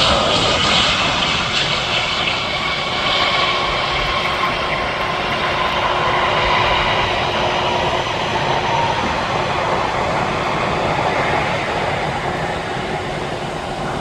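Boeing airliner's jet engines running loud and steady, their whine slowly falling in pitch as the aircraft passes.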